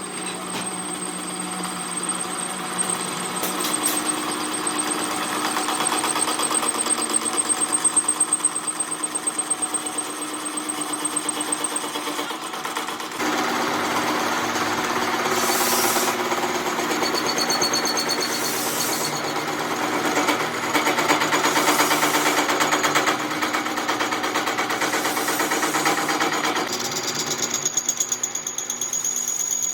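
Workshop machinery running steadily with a fast, even pulsing, changing abruptly about 13 seconds in, with several short bursts of hiss in the second half.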